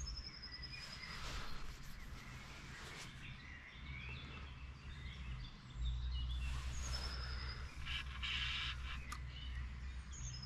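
A songbird singing a short high phrase, a single note followed by a quick, slightly falling trill, repeated three times. Under it runs a low rumble that grows louder about six seconds in.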